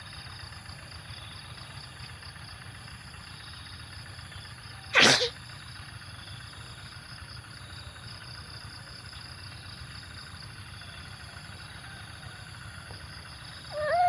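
A single short, sharp burst of noise about five seconds in, loud over a steady background hiss, followed near the end by a brief call that falls in pitch.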